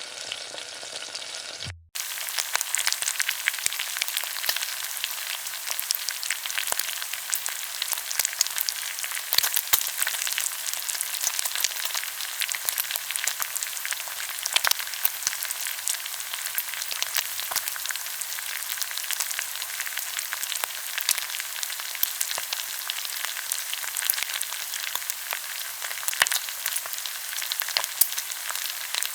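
Food frying in hot oil in a pan: steady dense sizzling with constant fine crackles and pops. The sound drops out briefly about two seconds in, then the frying carries on.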